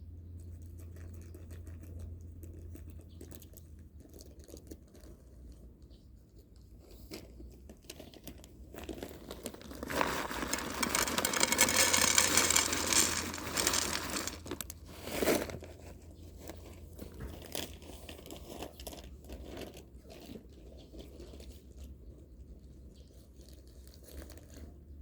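A crinkling, rustling noise that swells for about five seconds in the middle, ending in a sharp click.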